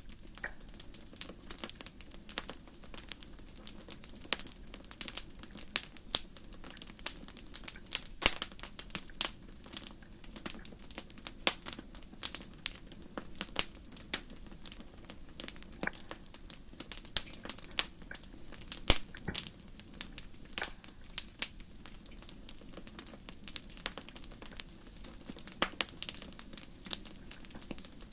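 A fire crackling: irregular sharp pops and snaps, several a second, over a steady low hiss of the flames, with a louder pop about two-thirds of the way through.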